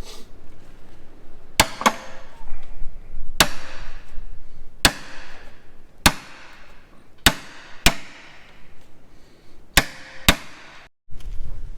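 Hammer blows on a hand impact driver, about eight sharp metallic strikes a second or two apart, each ringing briefly, to break loose stubborn Allen head bolts.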